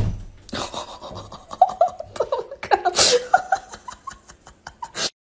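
A person laughing in short bursts, with breathy gasps between them.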